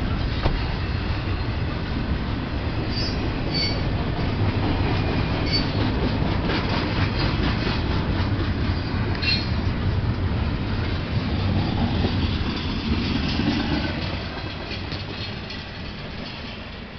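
Freight train's intermodal cars rolling past: a steady rumble of wheels on rail with clacks over the rail joints and a few brief high wheel squeals. The noise dies away over the last few seconds.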